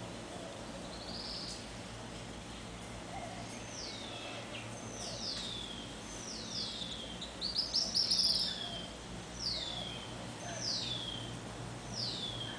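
A bird calling repeatedly: sharp whistles sliding down in pitch, about one a second, with a quick run of rapid notes around the middle.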